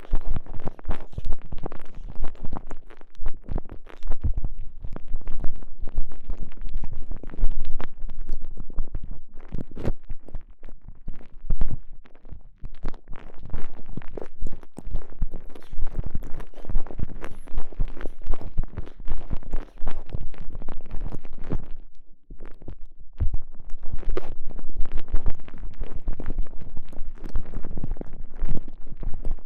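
Close-miked squishing and rubbing from a microphone stuffed inside a TENGA Egg, a soft stretchy elastomer sleeve, as it is squeezed and worked around the mic. The sound is a dense, irregular run of wet crackles and low thumps, with a brief lull near the end.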